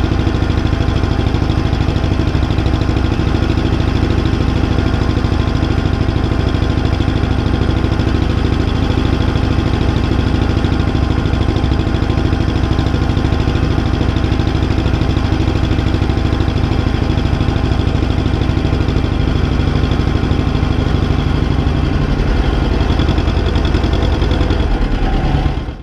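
T-25 tractor's air-cooled two-cylinder diesel running steadily with a fast, even chugging pulse; its note shifts slightly near the end.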